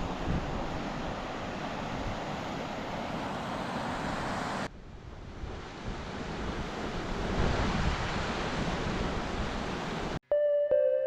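Steady outdoor rushing noise, interrupted by a sudden cut about halfway through and then resuming. Near the end it stops abruptly and soft piano-like music begins.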